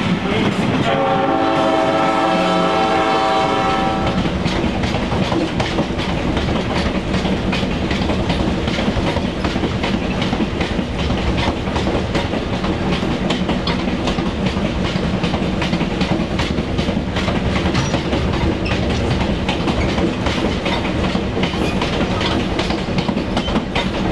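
Diesel locomotive sounding a multi-note horn chord for about three seconds as a train passes close by. The engine runs and the wheels clack steadily over the rail joints.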